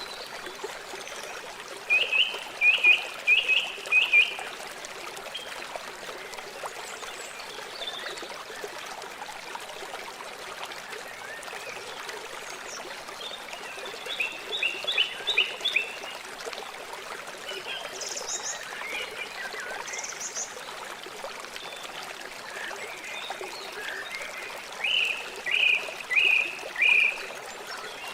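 River water flowing steadily. Three times, near the start, in the middle and near the end, an animal gives a quick run of about five repeated high calls, louder than the water.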